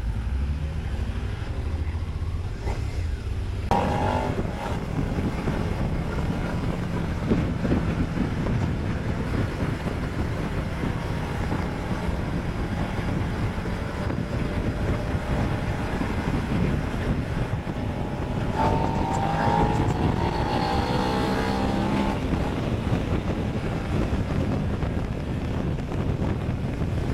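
Motorcycle engine running under way, heard from the bike's onboard microphone with wind and road noise. The engine note picks up about four seconds in and revs up again around two-thirds of the way through.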